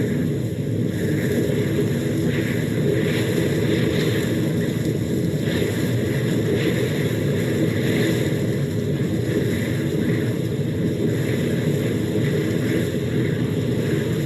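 Steady low rushing rumble of a blizzard wind sound effect, with no pauses or changes in level.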